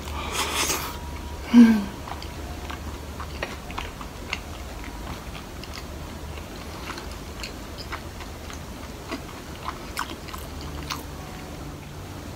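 Close-miked eating sounds: a spoonful of curry rice taken into the mouth, then chewing with soft wet clicks and smacks. About a second and a half in there is one brief, loud, low mouth sound.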